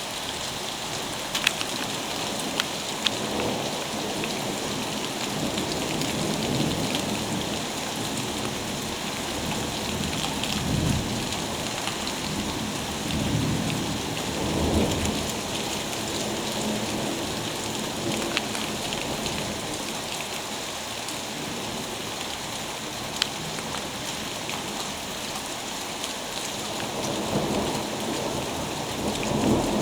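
Summer thunderstorm: steady heavy rain falling on surfaces, with thunder rumbling low three times, about a third of the way in, around the middle and near the end. A few sharp taps stand out over the rain.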